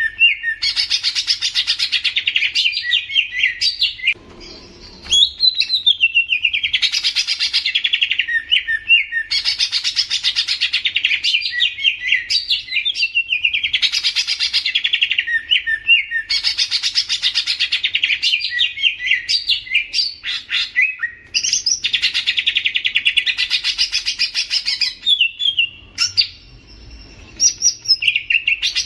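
Green leafbird (cucak ijo) singing loud, run-on phrases of rapid chattering trills and whistles, each a second or two long. The phrases follow one another with only brief pauses, the longer ones about four seconds in and near the end.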